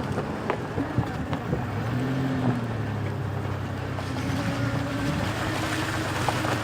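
A motor running at a steady hum that sets in about a second and a half in, with a few clicks before it.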